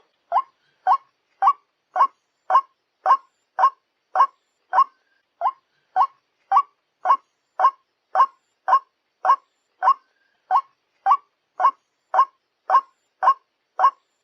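White-breasted waterhen calling: a long, even series of single short notes, about two a second.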